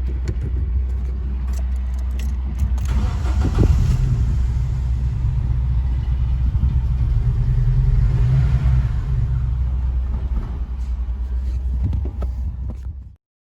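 Vauxhall Astra petrol engine running on freshly fitted NGK spark plugs, put in to cure a cylinder 2 misfire, with the note rising briefly about three seconds in and again around eight seconds. The sound cuts off suddenly near the end.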